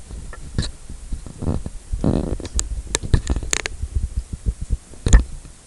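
Things being handled and moved around close to the microphone: an irregular run of knocks and clatters, with a scraping rub about two seconds in and a sharp thump near the end.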